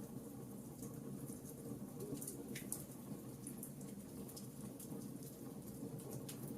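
Wood fire crackling: a steady low rumble of burning with scattered sharp pops and snaps, one louder crack about two and a half seconds in.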